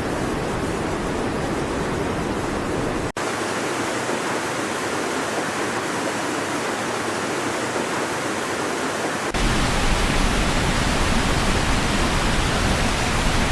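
Fast-flowing floodwater rushing, a steady noise with no distinct tones. It cuts out sharply for an instant about three seconds in, then changes to a heavier, deeper rush after about nine seconds, as if between different pieces of footage.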